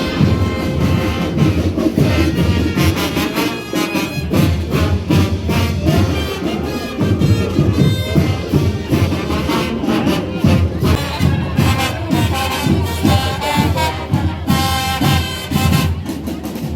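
Marching band playing, with brass instruments over a steady beat of drums.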